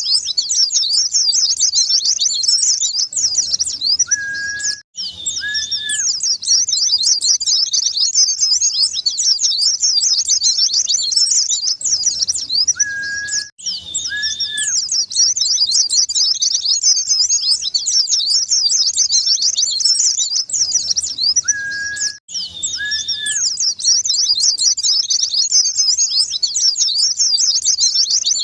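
White-eye (pleci) song: dense, rapid, high twittering with hardly a break, looped, with a brief gap about every nine seconds. Two short, steadier lower notes come just before each gap. It is a lure recording played to coax a silent white-eye into singing.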